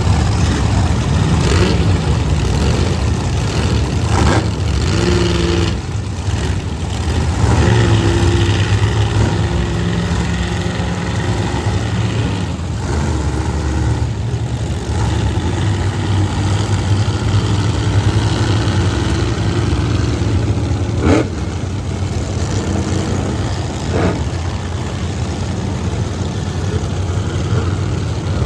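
Monster truck engines running loud and low, idling with revs rising and falling. Two sharp pops cut through, about two-thirds of the way in and again a few seconds later.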